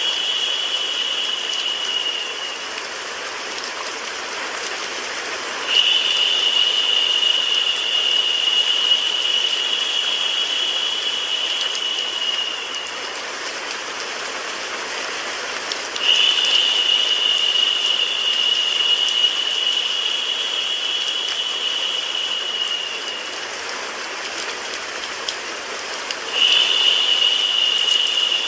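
Steady rain hiss mixed with white noise. A higher, narrower hiss cuts in abruptly about every ten seconds, three times here, and fades after about seven seconds each time, like a looped recording.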